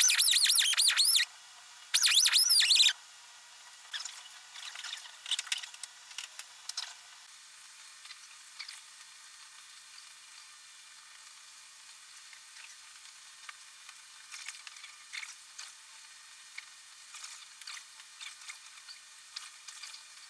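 A small high-speed power tool run in two short bursts of about a second each, its whine gliding in pitch, followed by faint clicks and handling noises.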